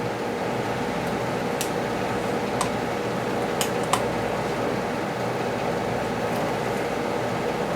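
Steady background hum with a few faint, short clicks in the first four seconds.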